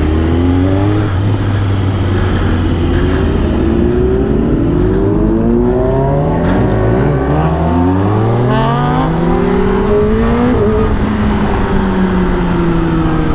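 A pack of inline-four superbikes accelerating together: several engine notes rising and overlapping as the bikes pull through the gears. The nearest bike's low, steady engine note climbs in pitch about seven seconds in.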